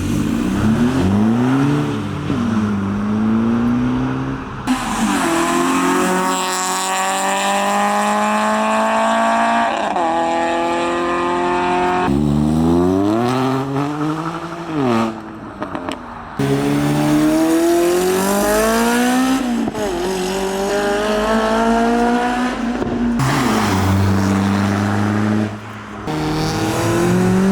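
Modified cars accelerating hard past one after another, their engines revving up steadily and dropping in pitch at each gear change, again and again.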